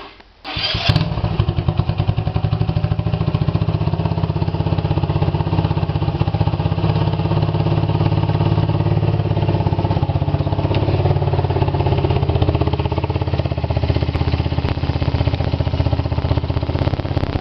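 I-Moto Dragon II 125cc motorcycle's single-cylinder engine being started from cold. It cranks briefly and catches about a second in, then idles steadily with a fast, even pulsing beat.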